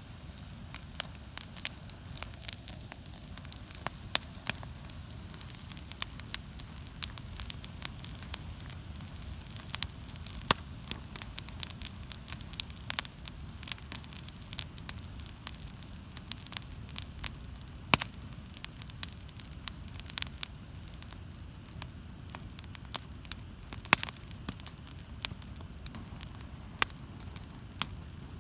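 Wood bonfire crackling, with frequent irregular sharp pops and snaps over a low steady rumble.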